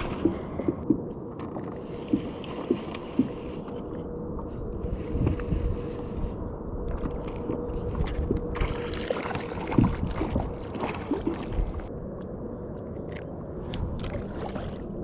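Small clicks, knocks and rustling from fishing tackle being handled aboard a plastic kayak as a soft-plastic stickbait is rigged onto a hook, with a few sharper knocks against the hull.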